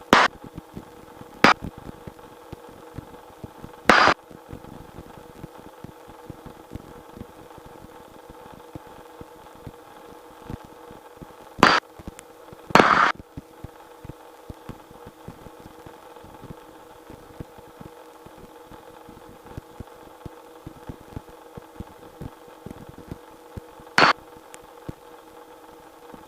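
Steady hum of a Robinson R-22 helicopter in flight, heard through the cockpit intercom. It is broken about six times by short, loud crackles of static from the helicopter's radio.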